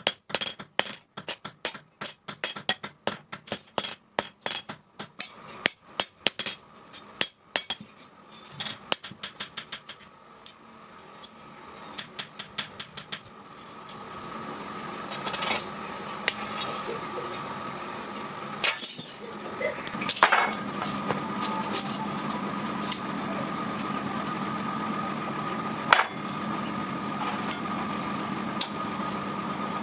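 Blacksmith's hammer striking steel in quick repeated blows, about three a second, each with a short metallic ring. About halfway through the hammering stops and a steady motor hum takes over, with a few knocks on top.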